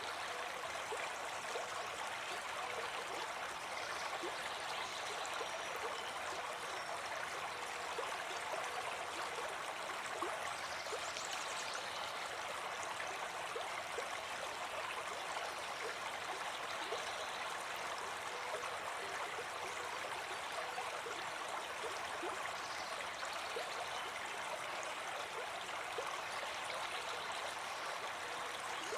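River water running: a steady, even rush with many small ticks of water.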